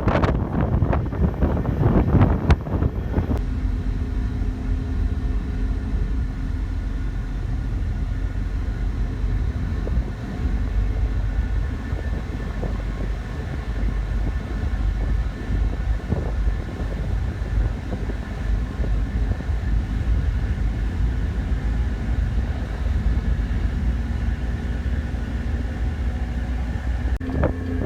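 Ferry engines running with a steady low rumble, heard from aboard the boat. Wind buffets the microphone for the first few seconds.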